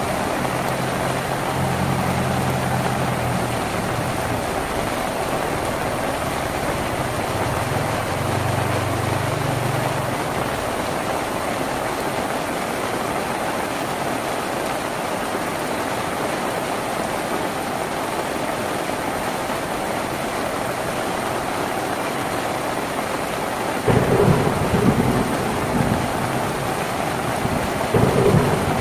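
Steady heavy rain drumming on a tin roof, an even hiss throughout. A low rumble sits under it in the first few seconds and again about eight seconds in, and two louder surges come near the end.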